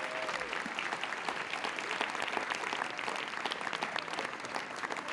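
Audience applauding steadily, a dense patter of many hands clapping, with a few voices faintly audible near the start.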